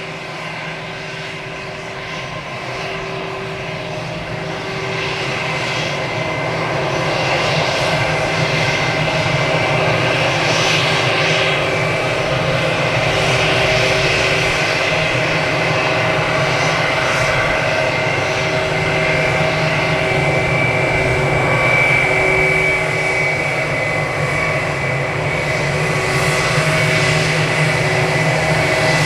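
Jet engines of an Airbus A320ceo airliner at takeoff power, a steady loud noise with held whining tones. It grows louder over the first several seconds, then holds.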